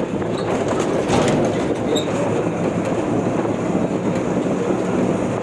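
Steady, loud rumbling noise of a moving vehicle, with a few faint clicks.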